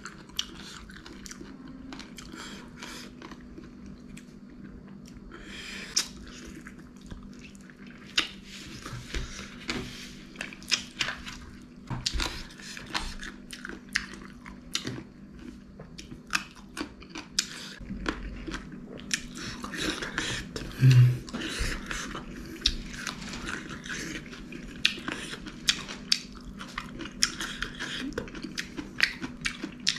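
Close-up chewing and biting of spicy chicken feet: a steady run of short wet mouth clicks and smacks as the skin and small bones are worked. About two-thirds of the way through there is one brief, loud low sound.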